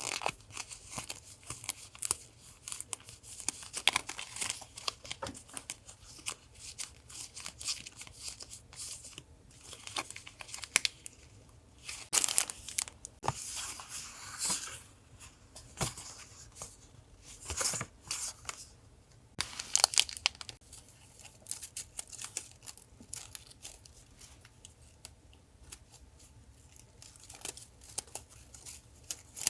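Paper goods and stickers being handled and unwrapped: irregular crinkling, rustling and tearing, with louder bursts now and then.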